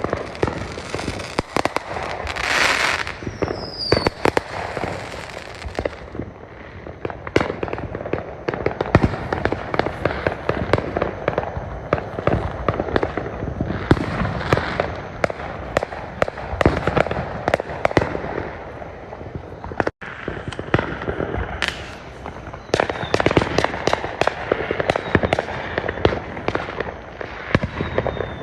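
Fireworks going off in a rapid, unbroken string of bangs and crackles, with a short falling whistle about four seconds in.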